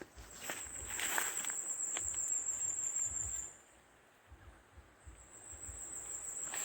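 An insect, cricket-like, trilling high and steady, breaking off about halfway through and starting again near the end. A few footsteps crunch on the forest floor in the first couple of seconds.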